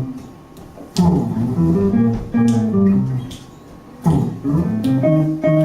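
Guitar and bass playing a repeating rhythm-and-blues riff, each phrase opening with a sharp plucked attack, about one every three seconds.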